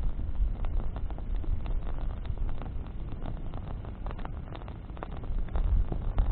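Wood campfire burning, with burning branches crackling and popping irregularly over a steady low rumble.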